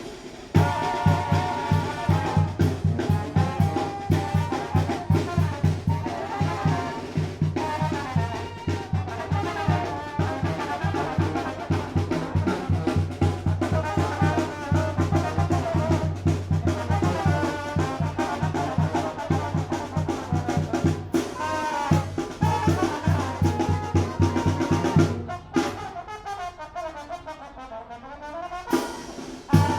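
Tamborazo brass band playing live: trumpets and trombones over a steady beat on the bass drum. The drum beat drops out for a few seconds near the end, then the full band comes back in.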